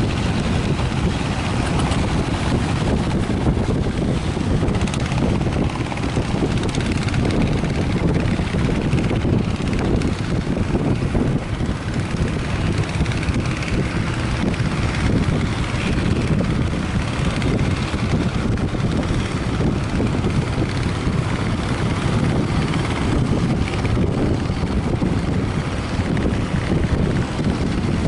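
Strong coastal wind buffeting the microphone over the sea, a loud, steady, rough noise heaviest in the low end.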